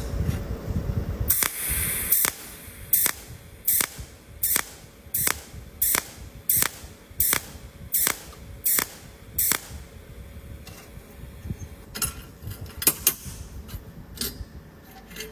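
Laser spot welder pulsing on metal: a row of about eleven short, sharp pops, evenly spaced a little under a second apart, followed near the end by a few irregular clicks. A faint steady hum runs underneath.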